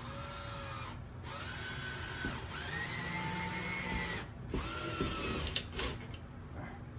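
Cordless drill-driver driving a screw through a wooden board into a wall stud, in three runs, the motor whine rising in pitch as each run starts and falling as it stops. A few sharp clicks follow near the end.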